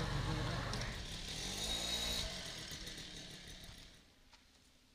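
Low engine-like rumble with a brief pitched hum that rises and falls about a second and a half in, fading away to silence near the end.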